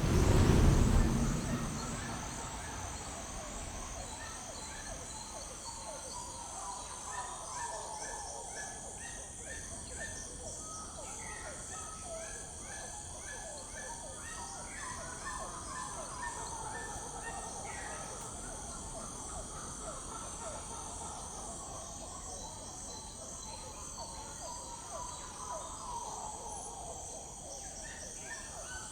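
The tail of a piece of music fades out in the first two seconds. After that comes a natural outdoor ambience: insects shrill steadily, and birds call again and again with short chirps.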